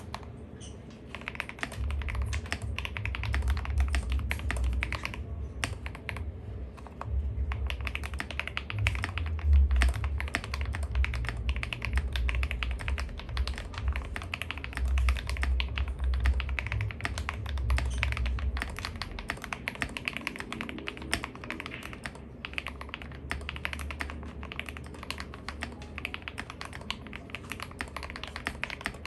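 Fast, continuous typing on a mechanical keyboard fitted with KTT Rose linear switches: a dense run of keystroke clacks that eases off somewhat in the second half.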